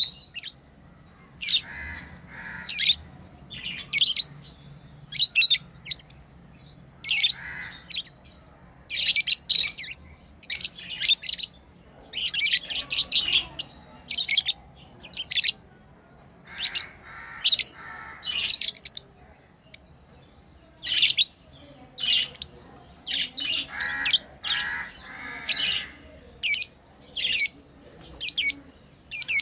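Pet lovebirds chirping: quick series of high-pitched chirps in clusters about a second long, broken by short pauses, with a few lower calls among them.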